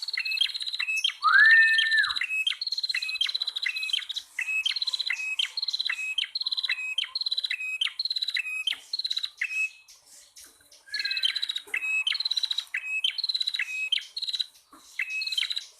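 Prenjak tamu (prinias), a male and female, calling: fast repeated chirps at about two a second, each a high note dropping to a lower one. One lower, rising-then-held whistle sounds about a second in, and the calls break off for a moment past the middle before resuming.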